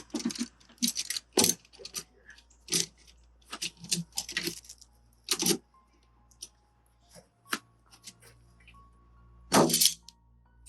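Paintless dent repair glue-pull tabs being pulled on a car body panel: a series of sharp clicks and cracks of the pulling tool and the tabs on the metal, irregularly spaced, with a few louder cracks.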